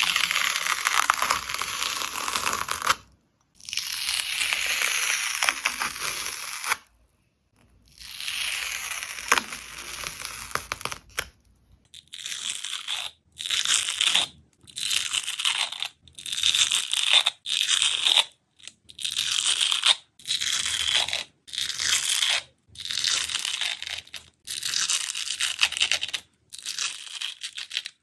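A dried skin on slime being torn, with a crackling hiss. There are three long tears of about three seconds each, then a quicker run of short tears at about one a second.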